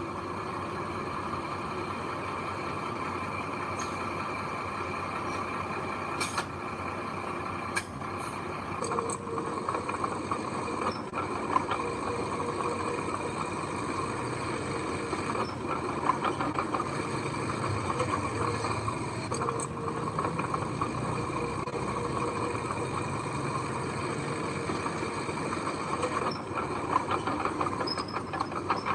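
Heavy earthmoving machinery running steadily, the diesel engine of a dump truck or bulldozer at work, with a few short sharp clicks between about six and eight seconds in.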